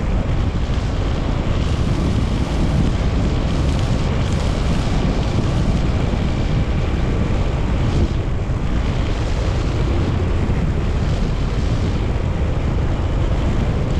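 Wind rushing over the microphone on a moving Honda TMX 125 Alpha motorcycle, with its single-cylinder four-stroke engine running steadily underneath.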